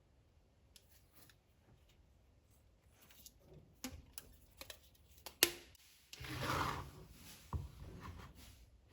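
Scissors snipping stiff plastic sheet: a few sharp snips about halfway through, the loudest just past the middle, then a longer rustling cut and a light knock.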